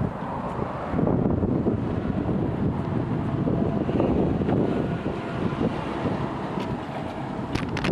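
Takisawa TSL-550 engine lathe running, with a steady mechanical noise and a faint steady tone; a few sharp clicks near the end.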